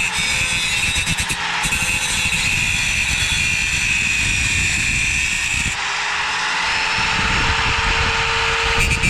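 Angle grinder running against sheet steel, a continuous high whine over rough grinding noise that shifts in tone about six seconds in as the load changes.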